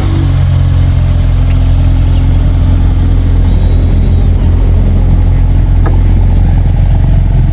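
Car engine idling steadily, a loud, low hum that holds one pitch.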